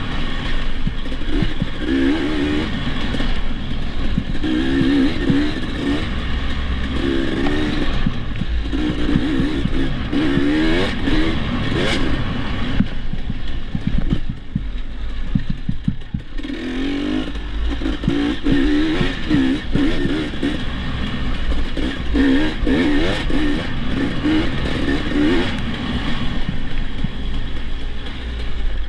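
Dirt bike engine revving up and down over and over as it is ridden over rough ground. It eases off to a lower, quieter run for a few seconds about halfway through, then picks up the rising and falling revs again.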